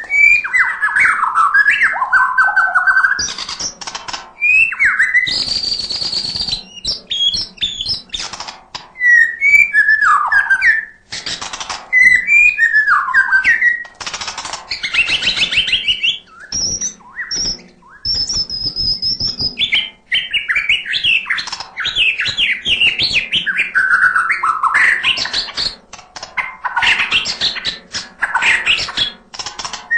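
Shama (murai batu) singing a long, varied song of loud whistled and warbled phrases packed with learned filler notes, with short pauses between phrases and a few harsh rasping bursts, the longest about five seconds in.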